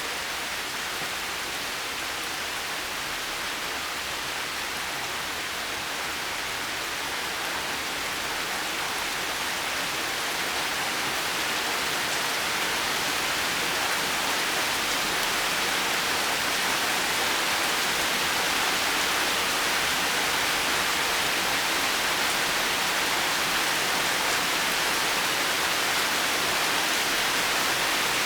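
Steady rain falling, an even hiss with no distinct drops or thunder, growing slightly louder about a third of the way in.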